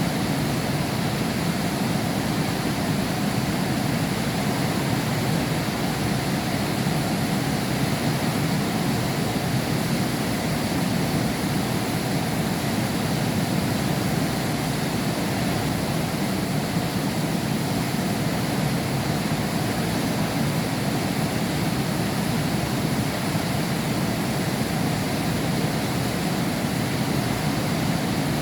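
Heavy rain falling steadily, heard through a window pane: an even, unbroken rushing hiss.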